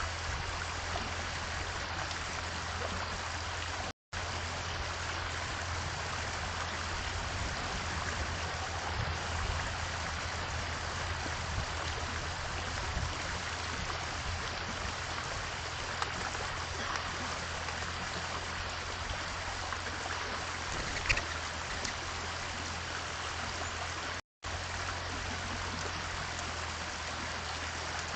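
A steady rushing noise like running water, over a low hum. It cuts out completely for a moment twice, and there is one brief high chirp a little after 21 seconds in.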